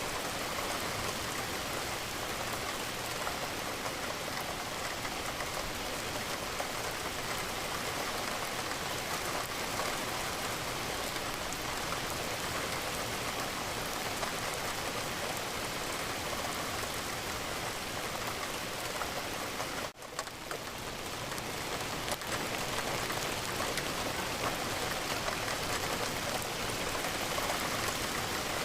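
Steady rain falling, a dense even patter of raindrops. It drops away abruptly for a moment about two-thirds of the way through and swells back over the next couple of seconds.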